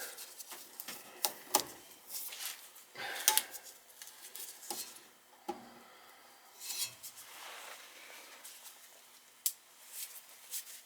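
Scattered light metallic clicks, taps and scraping as hands and tester leads work at the wiring inside a gas furnace cabinet, checking for power at the inducer fan.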